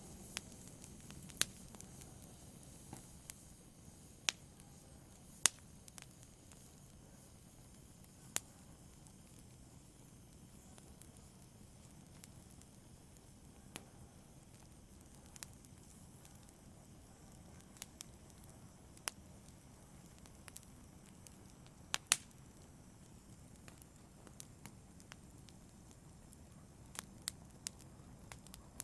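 Wood fire burning in a fireplace: a low, steady rush of flames with sharp crackles and pops at irregular intervals, a few of them louder, about five seconds in and again near 22 seconds.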